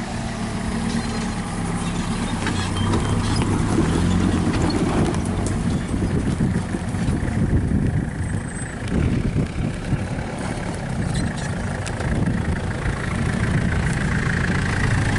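Vehicle engines running steadily at low revs, a continuous low drone.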